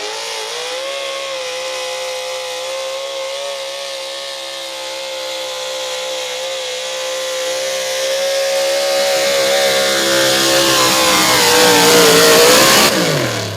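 Super stock pulling truck's engine running flat out at high revs through a pull, getting louder as it comes closer. Near the end the pitch wavers and sags as the load builds, then the throttle is cut and the revs fall away steeply.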